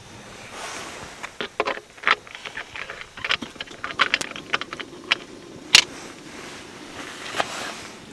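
Quick, irregular clicks and clinks of small hard objects being handled, with one sharper knock near the middle.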